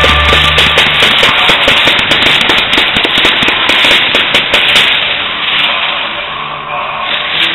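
Fireworks crackling: a dense, rapid run of small sharp bangs, like a string of firecrackers, that thins out and dies away from about five seconds in.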